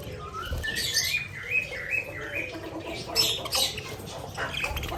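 Pet budgerigars chattering: a quick run of short rising chirps that climb step by step in pitch, mixed with louder scratchy notes.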